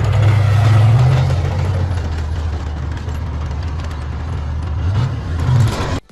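A vehicle engine running steadily with a low hum, rising briefly about five seconds in, then cutting off suddenly near the end.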